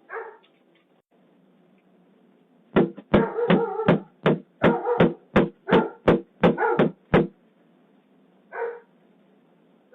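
A dog barking: one bark at the start, then a fast run of about a dozen barks over four or five seconds, and one more bark a little later.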